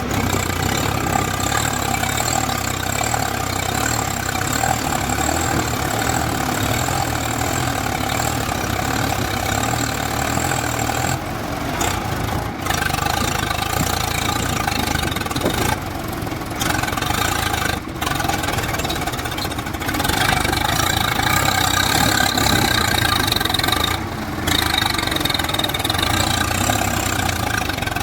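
Tractor diesel engine running steadily under power while working to get out of deep sand, with a few brief dips in level.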